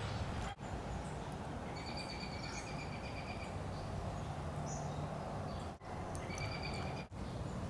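Outdoor background noise with a bird calling in thin, high whistled notes, twice. The sound cuts out briefly three times.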